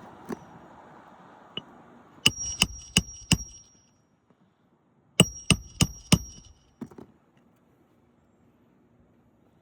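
Hammer striking metal during a roof shingle repair: two quick sets of four blows, about a third of a second apart, each with a bright ringing note, then a couple of lighter taps.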